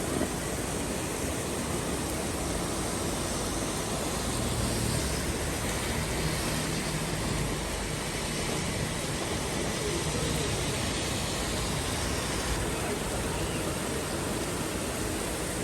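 Heavy rain falling in a steady, even hiss, with a faint low rumble about four to eight seconds in.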